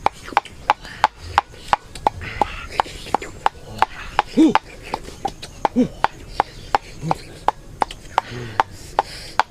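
Knife chopping on a wooden board in a steady rhythm, about three strikes a second. A few short rising-then-falling calls sound between the strikes.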